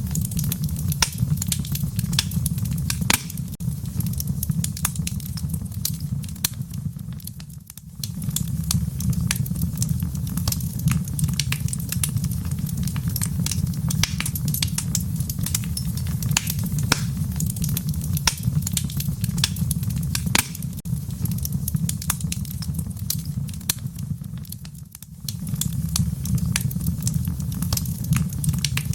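Wood fire crackling in a fireplace: frequent sharp snaps and pops over a steady low rumble of the flames. The rumble fades briefly twice, about eight seconds in and again a few seconds before the end.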